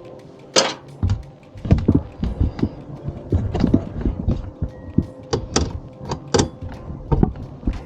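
Irregular sharp clicks and knocks of parts being handled and fastened while a fog light bracket is fitted into a car's front bumper.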